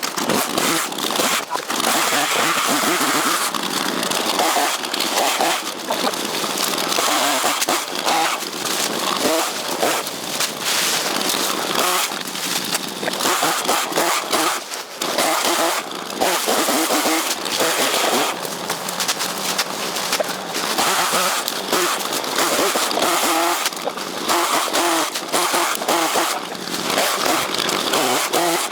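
Chainsaw running at high revs while cutting bamboo, its engine note dipping briefly now and then as the throttle eases off.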